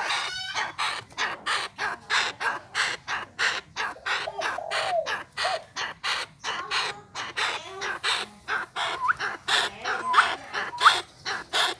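Chinese francolin calling: a fast, even series of short harsh, grating notes, about three a second.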